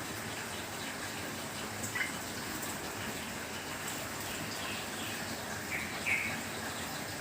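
Steady rain falling, with a few short bird chirps about two seconds in and again around six seconds.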